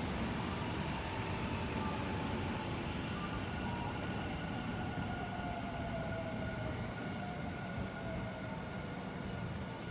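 Steady vehicle noise in a town street, with a faint tone that slides slowly down in pitch through the middle.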